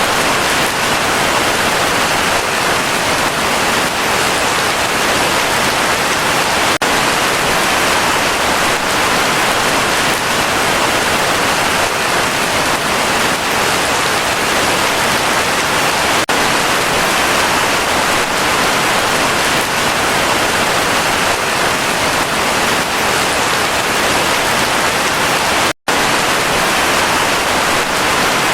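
Heavy rain falling steadily, a dense even hiss. It cuts out for a split second near the end and comes straight back.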